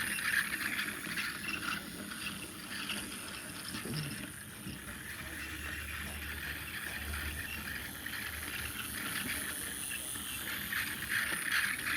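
Two small model trains running on track: quiet small electric motors whirring with a light rattle of wheels on the rails, one motor louder than the other.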